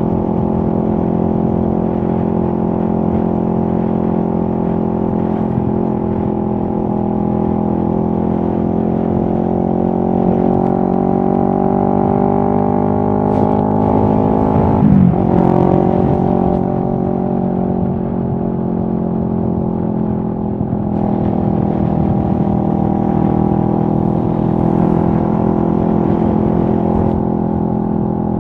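2023 CFMoto 650NK's 649 cc parallel-twin engine running at steady moderate revs. The pitch creeps slowly upward, dips sharply about halfway through and recovers, then holds steady.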